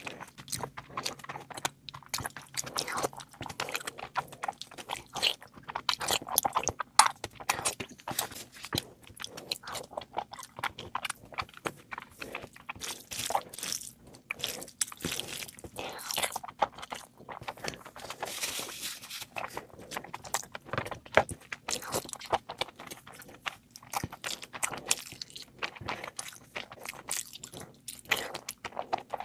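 A person eating close to the microphone: chewing, biting and crunching, with many quick irregular clicks.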